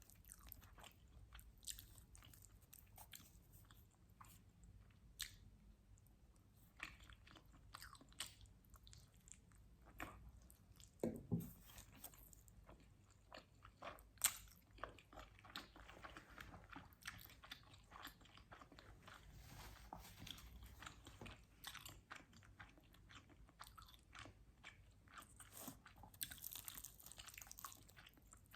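Faint mouth sounds of a person biting and chewing pizza: a steady scatter of short, sharp clicks and smacks, with a brief low sound about eleven seconds in.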